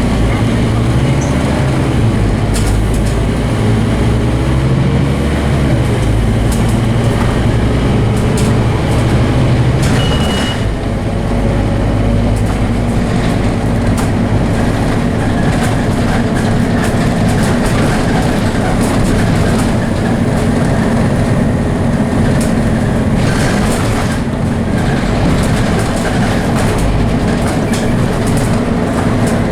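Scania DC9 five-cylinder diesel of a Scania OmniCity double-deck bus running hard, its low note shifting in steps several times, most clearly about ten seconds in, as the ZF automatic gearbox changes gear. Frequent rattles and clicks come from the bus body.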